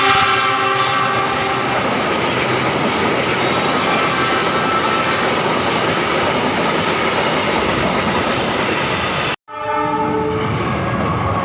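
Passing train: its horn fading out in the first second or two, then the steady noise of the train cars running past. A sudden cut about nine seconds in leads to another brief horn blast and more passing-train noise.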